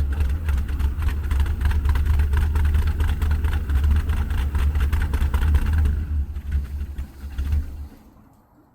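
Carbureted truck engine running on a cold start, with a strong, fast, even firing rumble, then winding down and stopping about eight seconds in.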